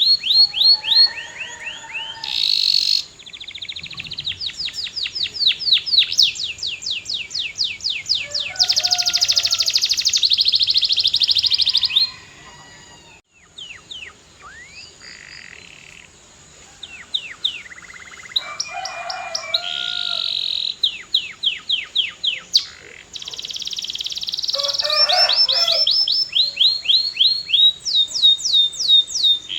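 Canary singing: long, fast trills of rapidly repeated high sweeping notes mixed with lower warbling phrases. The song breaks off sharply near the middle and builds again after a few quieter seconds.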